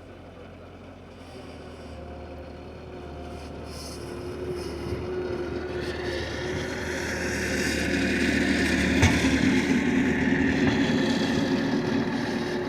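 Bobcat skid-steer loader running as it pushes snow, its engine growing louder as it comes closer, loudest around nine seconds in, then easing off. A single sharp knock sounds near the loudest point.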